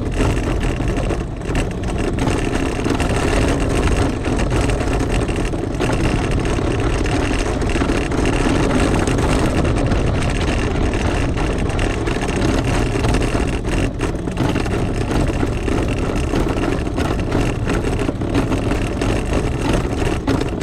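Rosso Motors ATV engine running steadily while the quad is ridden, with a dense, unbroken drone and no clear revving.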